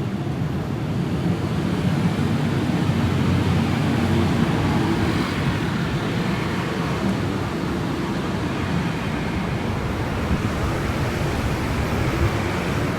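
Steady city traffic noise: a low engine hum with an even hiss over it, with no single sudden event.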